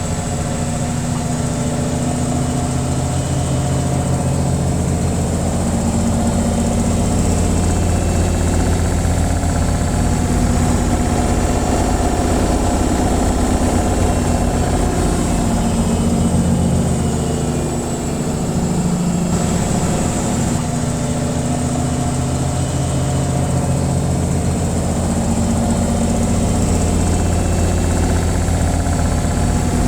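Washing machine on its spin cycle: the drum spinning with a steady low hum and whirr, dipping briefly a little past the middle.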